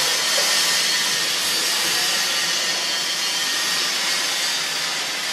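A steady, even hiss with no rhythm or distinct strokes.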